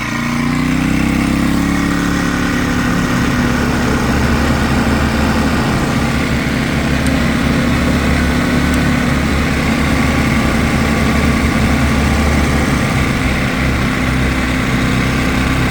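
Harbor Freight Predator portable generator running steadily under load from a corded 7-inch angle grinder. A pitch rises within the first second as the grinder comes up to speed, and falls away at the very end as it winds down.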